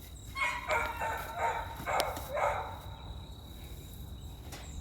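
A dog barking about five times in quick succession, then stopping a little under three seconds in, over a steady high insect trill.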